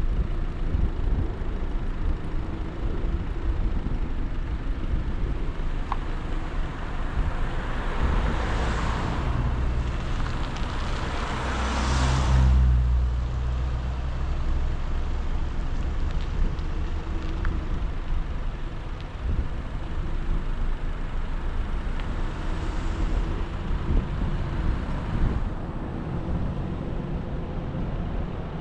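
Steady road and engine noise of a car driving. Another vehicle passes with a rush that builds over several seconds and peaks about twelve seconds in, and a fainter pass follows later.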